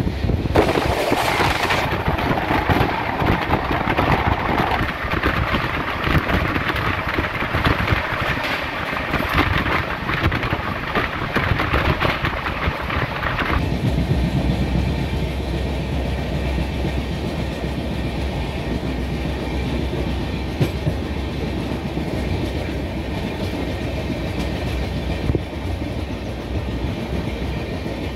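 Steady running noise of a moving passenger train heard from on board, the wheels rolling over the rails. About halfway in the brighter hiss cuts away suddenly, leaving a lower rumble.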